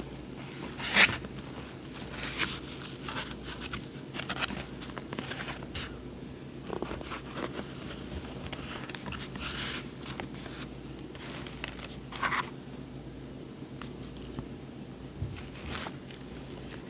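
Paper journaling supplies and their packaging handled: irregular rustles and crinkles, the loudest about a second in.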